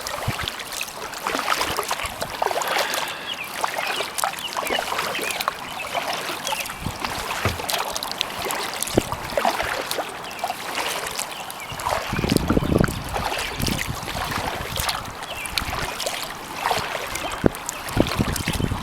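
Kayak paddling: water dripping and splashing off the paddle blades with each stroke. A low rumble of wind on the microphone comes in about twelve seconds in.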